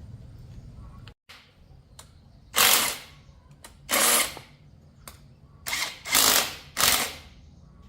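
A power tool runs in four short bursts of about half a second each, with pauses between them, while the motorbike is being worked on.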